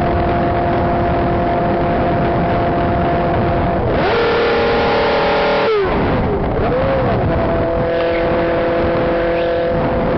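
Motorcycle engine running under a constant rush of wind. Its steady note shifts higher about four seconds in, drops sharply near six seconds, then settles back to the same steady drone.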